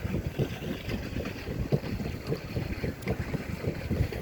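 Gusty wind buffeting the microphone on a paddle boat, with a faint wash of water underneath.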